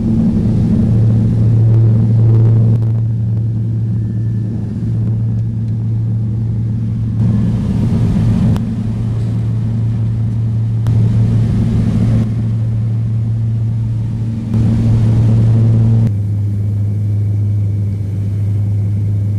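A steady low engine drone, an even hum that changes in tone slightly about sixteen seconds in.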